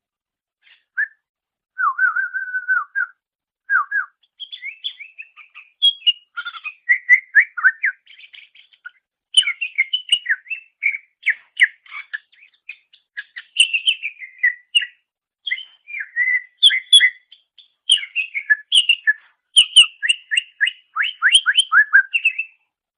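Green leafbird (cucak ijo) singing a long, varied song of clear whistles, slurred notes and quick chattering phrases. The song starts about a second in and stops just before the end.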